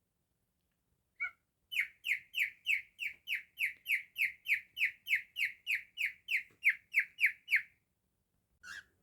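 Cockatiel calling: a single chirp, then a quick run of about twenty short, falling whistled notes at roughly three a second, and one more chirp near the end.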